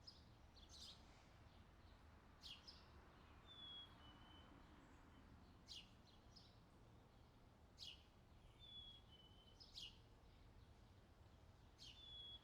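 Faint outdoor summer ambience of birdsong: short sharp chirps every couple of seconds and a two-note whistle stepping down in pitch, heard a few times, over a low hum.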